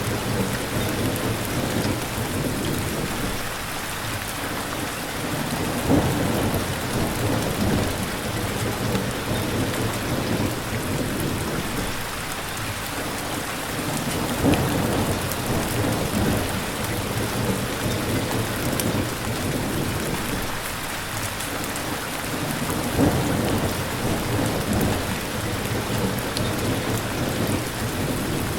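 Steady heavy rain with rolling thunder, rumbles swelling and fading every several seconds and sharper peaks about six, fourteen and twenty-three seconds in.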